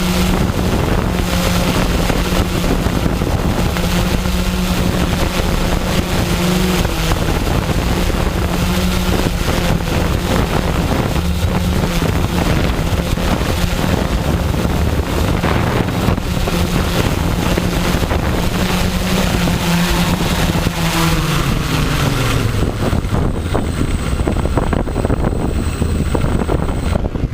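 Multirotor drone's brushless motors and propellers humming steadily, with strong wind buffeting the microphone. About 21 seconds in, the pitch falls as the motors slow.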